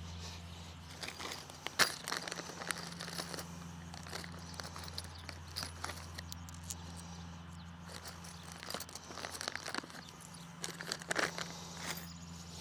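Small clicks, taps and knocks of metal mount parts and bolts being handled and fitted by hand, with one sharper knock about two seconds in and a busier spell near the end, over a steady low hum.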